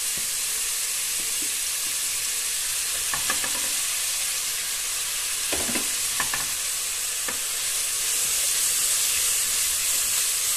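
Chopped onion, green tomato, green chilli and garlic sizzling steadily in hot sunflower oil in a non-stick pot, with a silicone spatula scraping and knocking against the pot several times in the middle as the mix is stirred.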